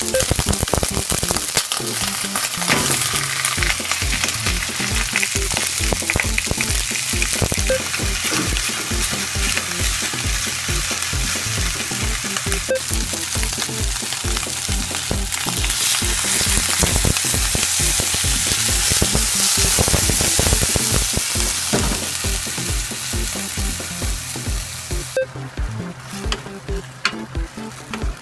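Food frying and sizzling in a pan, with short clicks and scrapes of a utensil stirring it. The sizzle drops off sharply about 25 seconds in.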